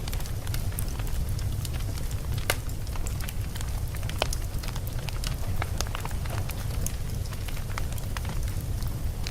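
Wood logs burning in a fireplace: a steady low rumble of flame with frequent, irregular sharp crackles and pops, a louder pop about two and a half seconds in.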